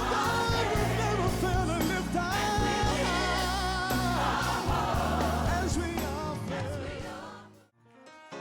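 Worship band with lead and backing singers performing a gospel praise song, with long held sung notes; the music fades out about seven seconds in.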